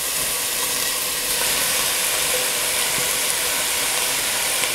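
Steady sizzle and hiss from a pot of onion and garlic frying in olive oil as flakes of desalted salt cod are slid in and the wet fish steams on the hot fat.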